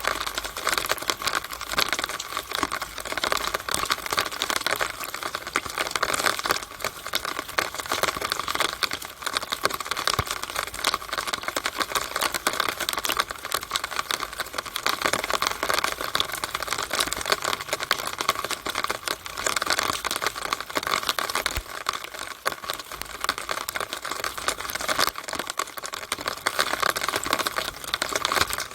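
Rainwater running through a downspout: a steady rush of water with a dense, continuous spatter of small drips and ticks.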